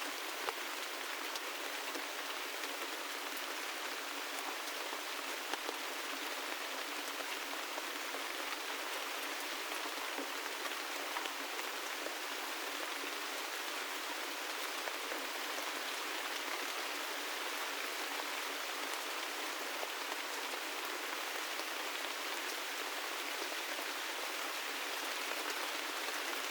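Steady gentle rainfall, an even hiss with scattered individual drops ticking on a surface; a few drops land louder, about half a second in and again around five and a half seconds.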